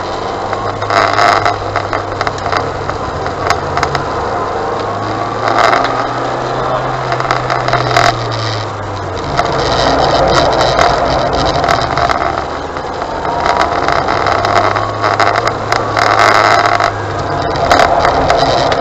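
Car engine running and tyre noise heard from inside the cabin as the car drives across tarmac, the engine note rising for a few seconds about four seconds in and again near the end, with occasional short knocks and rattles.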